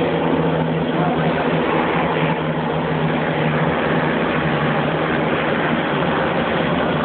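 Many racing quad and sidecar engines running together, a steady massed engine drone with no break or change.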